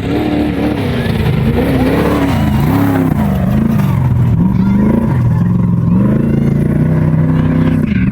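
Off-road race vehicle's engine running hard, its pitch swinging up and down again and again with the throttle, then holding steadier near the end.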